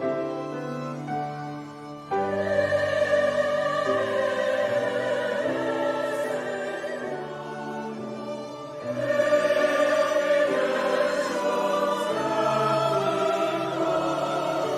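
Choir singing a Christmas choral piece with instrumental accompaniment. Softer sustained accompaniment opens; the voices enter louder about two seconds in and swell again around nine seconds in.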